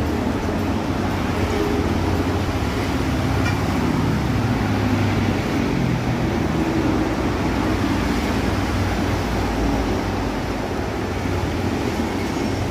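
Toyota Starlet EP71's engine running steadily, a low, even drone.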